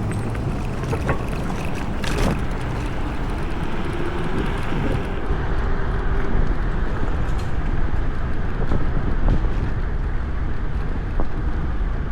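Wind rushing over the microphone and a steady low rumble while riding an electric scooter at speed, with a single sharp knock about two seconds in.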